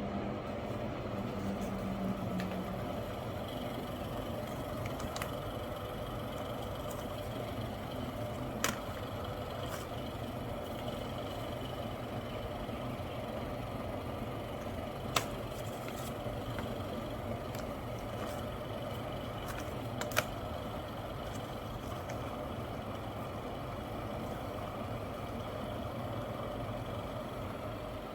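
BS BOSS bathroom exhaust fan running steadily, a low hum under an even rush of air, with three sharp clicks at scattered moments.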